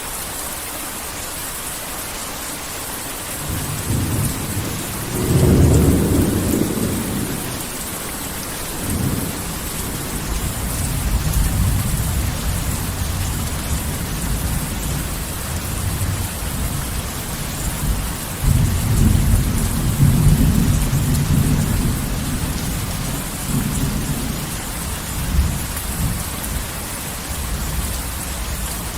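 Heavy rain falling steadily, with thunder rolling in twice: a first rumble a few seconds in, peaking soon after, and a second long roll in the middle.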